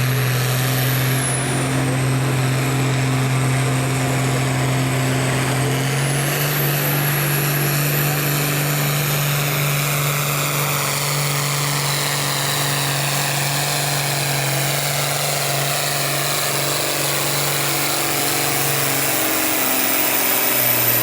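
A large engine running steadily at a constant speed. Its pitch steps up slightly about six seconds in and drops away near the end, with a high whine above it.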